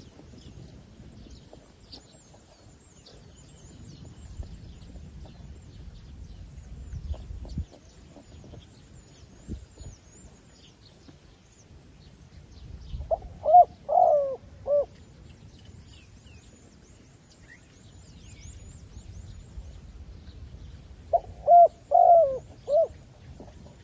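Decoy zebra dove cooing: two bursts of quick, separate pitched notes, one about halfway through and another near the end. Faint high chirps of other birds run underneath.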